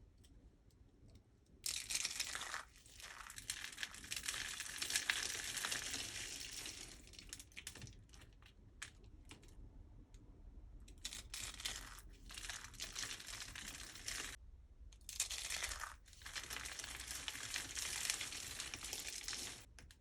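Dry soap crunching and crumbling in dense, crackly runs. The sound starts about two seconds in, with a few brief pauses.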